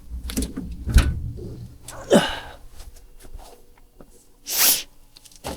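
Firewood logs and the iron door of a wood-fired boiler being handled: a few knocks and clunks, the loudest about a second in, a short falling squeak about two seconds in, and a brief hissing burst near the end.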